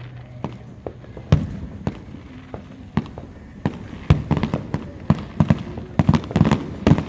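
Fireworks going off: a string of sharp bangs and pops at irregular intervals, coming thicker and faster in the second half.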